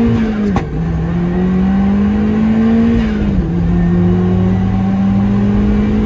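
Turbocharged 1.6-litre four-cylinder engine of a Mazda MX-5 under full-throttle acceleration, pulling up through the revs and upshifting twice, with a sudden drop in engine pitch about half a second in and again a little past three seconds.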